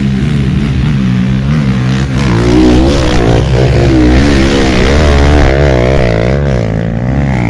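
Off-road motorcycle engine running hard, its revs rising and falling rapidly over and over as the throttle works on rough trail.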